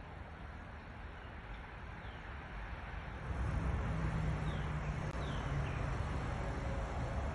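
Garden birds giving a few short, falling chirps over a steady low rumble that grows louder about three seconds in.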